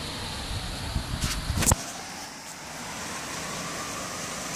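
Heavy rain pouring down, a steady hiss. A low rumble underneath cuts off suddenly a little under two seconds in, just after a couple of sharp clicks.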